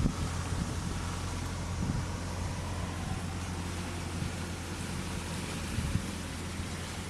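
Outdoor ambience: steady wind noise on the microphone over a constant low rumble, with a couple of soft low thumps.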